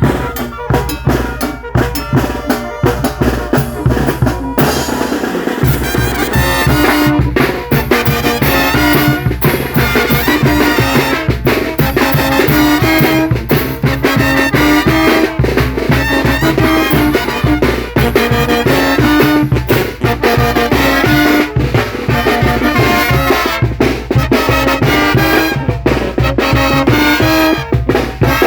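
Mexican banda (brass band) playing: the drums play alone for the first few seconds, then the full band with brass comes in about four seconds in over a steady drum beat.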